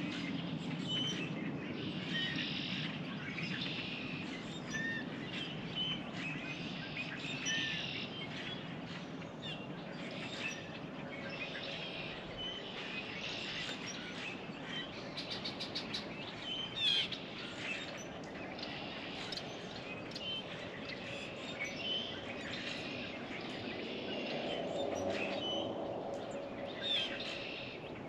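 Several small songbirds chirping and calling at a feeder, short high notes coming every second or so over a steady outdoor background hiss.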